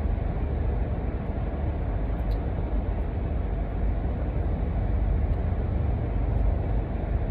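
Steady low rumble of vehicle noise, like road and engine noise heard inside a moving car.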